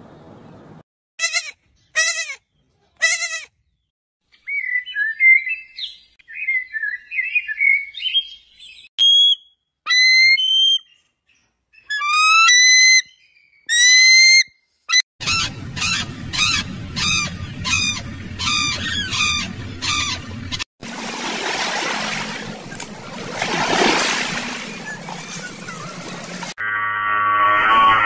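Bird calls in separate bursts of high whistles and chatter, including a bald eagle's rising piping calls near the middle. Then comes about five seconds of rushing noise, and guitar music starts near the end.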